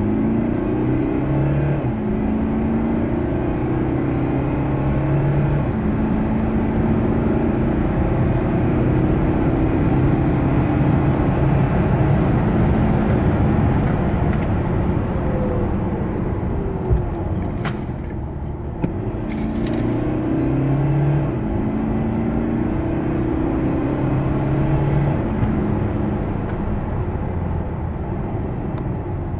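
Mercedes-Benz E220d All-Terrain's four-cylinder diesel engine accelerating hard through the gears of its automatic gearbox, the engine note holding and then stepping down at each gear change. A few short sharp rattling clicks come about two-thirds of the way through.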